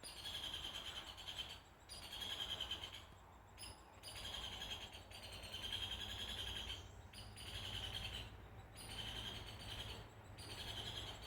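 Bird calling: a short trilled phrase, repeated about every second and a half.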